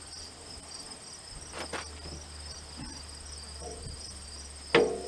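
Crickets trilling steadily in the background. Near the end comes one sharp metal clank with a short ring.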